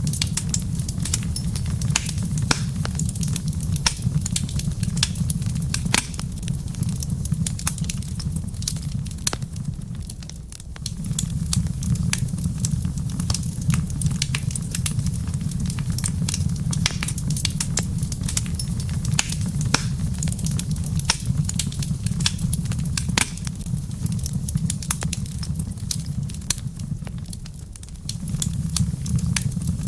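Wood fire burning in a fireplace: irregular sharp crackles and pops over a steady low rumble of the flames, which eases briefly twice.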